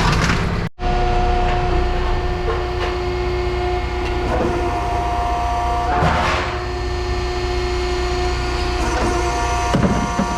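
Heavy machine's engine and hydraulics running steadily, a low rumble with a steady whine, while scrap metal crunches and clatters a few times, most clearly about six seconds in. The sound drops out briefly just under a second in.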